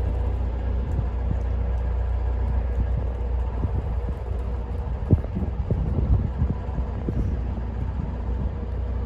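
Narrowboat's diesel engine running steadily under way, a low rumble with a faint steady hum, and a few soft knocks about five seconds in.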